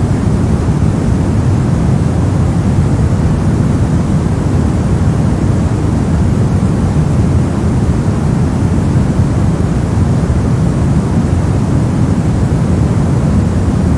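Steady synthesized noise played without a break: an even, unchanging rush that is heaviest in the low end and thins toward the top.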